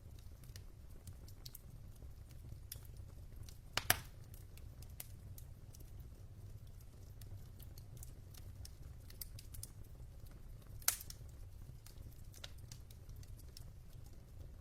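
Wood fire burning in a fireplace, logs crackling with scattered small clicks and two louder pops about 4 and 11 seconds in, over a low steady rumble.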